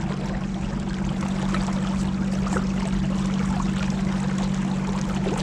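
Motorboat's engine running steadily at cruising speed, with water rushing and spattering along the hull.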